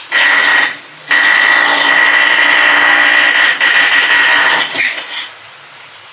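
A power tool used for an air-conditioner installation next door, running in two bursts: a short one at the start, then after a brief pause a run of nearly four seconds. It has a steady high whine over a rough noise.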